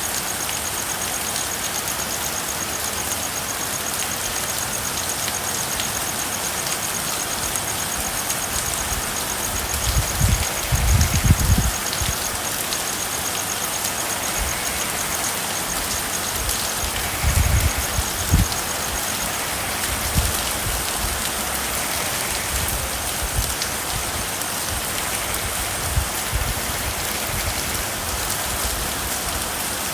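Steady rain falling on a car roof and window: an even hiss of pattering drops. Low rumbles swell about a third of the way in and again a little past halfway, and a faint, rapidly pulsing high trill runs through the first two-thirds.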